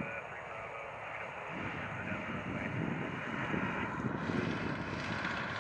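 Aircraft engine noise mixed with wind buffeting the microphone. It grows louder about a second and a half in and turns brighter and hissier near the end.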